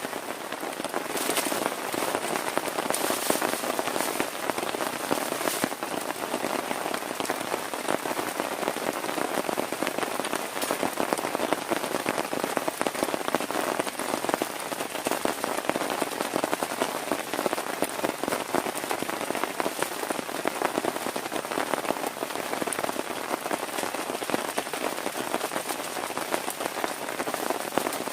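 Heavy rain falling steadily on a tent, a dense, even patter of countless drops.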